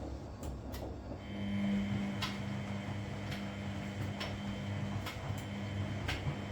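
Washing machine in its wash cycle: a low rumble, then about a second in a steady motor hum sets in as the drum turns, with sharp clicks about once a second.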